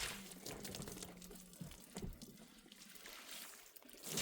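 Faint trickling water with small scattered ticks and splashes. A low steady hum runs underneath for about the first second and a half.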